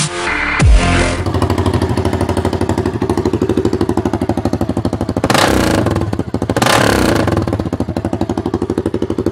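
Adly 300 XS quad's engine idling through its exhaust with an even, quick pulse, blipped twice to a louder rev a little past the middle. A snatch of electronic music plays for the first second.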